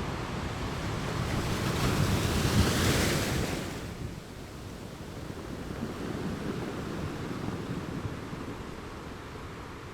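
Ocean waves: one wave swells and breaks in a rush of surf a few seconds in, then washes back more quietly.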